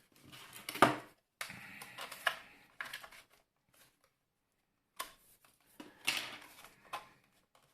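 Clicks, knocks and short scrapes of a steam iron's plastic housing being worked at with hand tools while taking it apart. There is a pause of about a second and a half in the middle, and the loudest click comes just under a second in.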